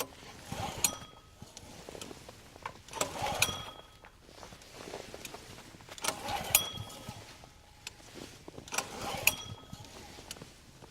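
Recoil starter of a Chinese 3500 W generator's single-cylinder Honda-clone engine pulled four times, about 3 s apart, each pull a rasping rope zip with a metallic click as the engine cranks over. The engine does not fire: a cold start at 13 °F on choke that is not catching.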